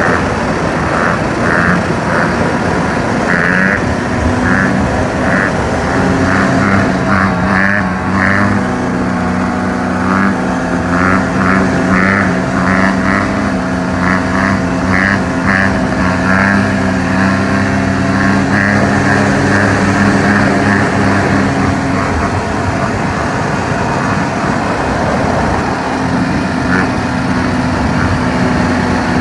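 Dirt bike engine held at steady revs through a long wheelie, heard from a vehicle driving alongside under heavy wind and road noise.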